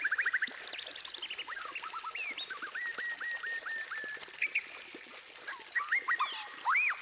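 White-rumped shama (murai batu) singing a varied song of clear whistles. A fast trill ends about half a second in, a quick run of repeated notes follows in the middle, and loud swooping up-and-down whistles come near the end.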